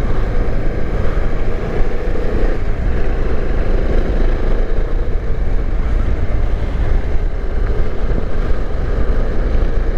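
Bajaj Dominar 400 motorcycle's single-cylinder engine running steadily while riding, with a continuous rush of wind and road noise.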